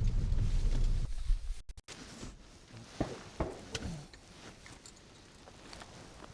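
Low rumble of a car driving over a rough, potholed track for about a second. The sound then cuts out and, after the break, gives way to quiet outdoor sound with scattered clicks and light footsteps.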